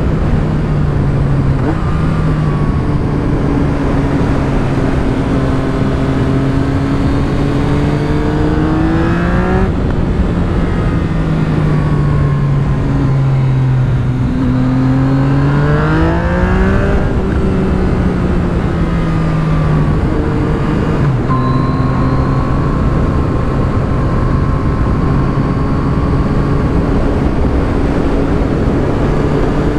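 Yamaha MT-09's three-cylinder engine under way through an Akrapovic carbon full exhaust with the dB killer in, its note rising and falling with the throttle. The pitch drops suddenly about ten seconds in and again about twenty seconds in, like gear changes.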